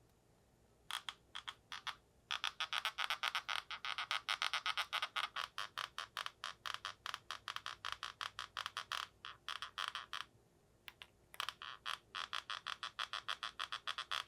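A Nokia 220 4G phone giving off its strange noise: a rapid clicking buzz of about six pulses a second. It comes in two long runs with a break about ten seconds in.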